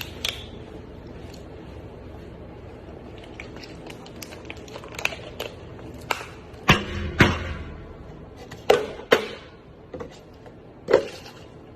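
A few sharp knocks or slaps over a steady low background noise: two pairs about half a second apart in the middle, and one more near the end.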